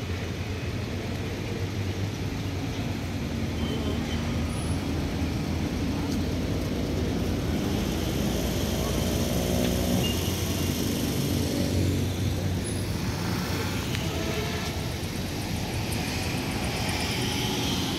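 Small hatchback cars running at low speed through a cone course, a steady low engine and traffic rumble.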